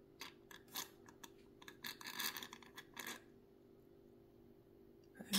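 Light clicking, tapping and rubbing of small objects being handled for about three seconds, then a pause and one louder short knock near the end, over a faint steady hum.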